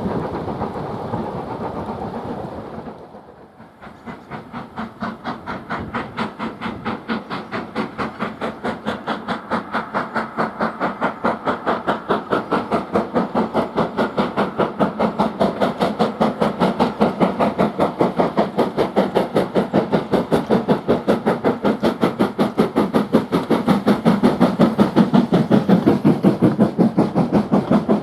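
Steam locomotive working a train, its exhaust beats coming in a fast, even rhythm and slowly growing louder. This follows a steady rushing noise that fades away about three seconds in.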